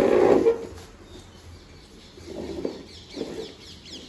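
Faint, quick, high chirps of small birds near the end, after a short loud burst of noise at the start.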